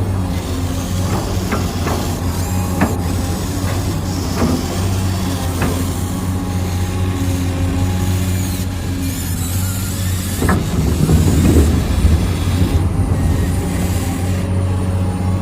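Huina 1593 radio-controlled construction vehicle's electric motors and gearboxes running with a steady, low hum, broken by several sharp clicks and knocks; the sound grows busier and louder about ten seconds in.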